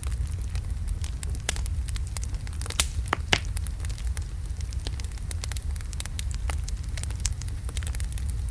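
Wood logs burning in a fireplace: a steady low rumble of the flames with irregular sharp crackles and pops, two louder pops about three seconds in.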